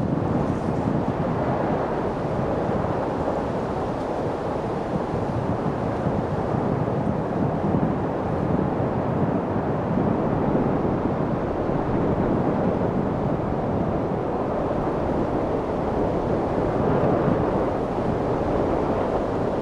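Light wind blowing, a steady even noise that holds the same level throughout without gusts or breaks.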